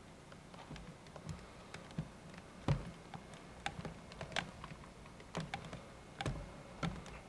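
Irregular sharp clicks and light knocks, about a dozen, unevenly spaced, over faint background hiss; the loudest knock comes just under three seconds in.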